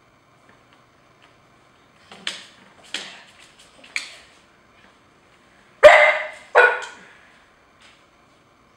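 Dog barking in play: three softer barks about two, three and four seconds in, then two loud barks in quick succession near six seconds.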